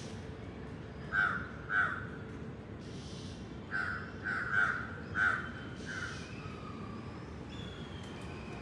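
A bird calling in short, loud calls: two, a pause, then five more in quick succession, over steady low background noise. Fainter, thinner chirps from other birds come in near the end.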